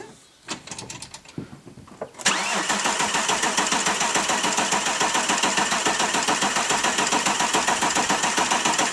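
Starter motor cranking the Audi A4's V6 TDI diesel engine, starting about two seconds in with a fast, even rhythm of compression pulses. The engine turns over without firing, because the fuel system is aired up with no fuel in it.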